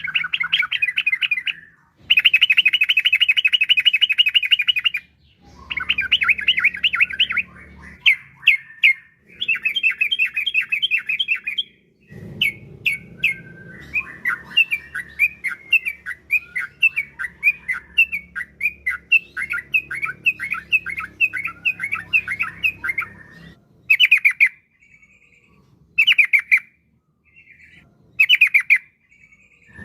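Yellow-vented bulbul (trucukan) singing in bursts of rapid, chattering notes. It delivers several phrases a few seconds long with short pauses between them. The longest is a rolling run of about ten seconds in the middle.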